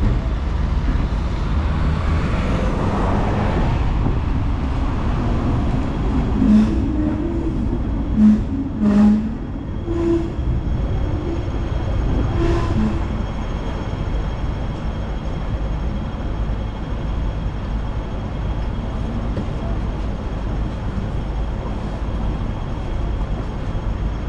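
Hong Kong double-decker tram running along its rails: a steady low rumble, with a handful of short knocks and clanks between about six and thirteen seconds in.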